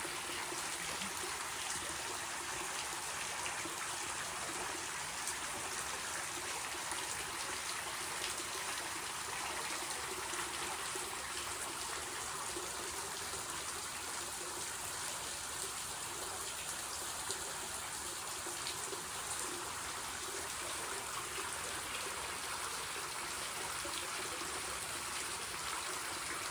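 Spring water trickling and running steadily into a pool, an even splashing rush with no breaks.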